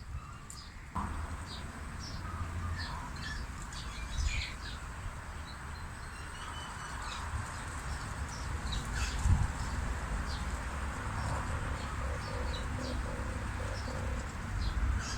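Many short, high chirps from small birds, with a low, rolling coo of a male red collared dove from about two-thirds of the way in. A low rumble runs underneath.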